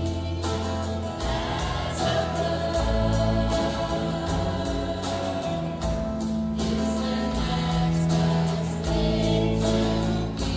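Music: a choir singing held notes over instrumental backing with a steady beat.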